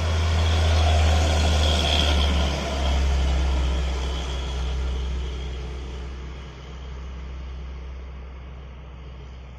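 Heavy diesel truck engine pulling up a steep climb with a deep, steady drone. It is loudest a second or two in as the truck passes close, then fades as it moves away.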